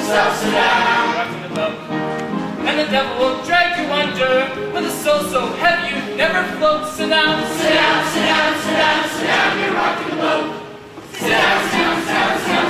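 A chorus of voices singing a lively gospel-style show tune. The singing dips briefly near the end and comes back louder.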